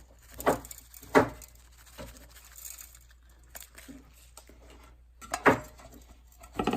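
Kitchen knife chopping on a cutting board: several uneven knocks, the loudest just over a second in and about five and a half seconds in.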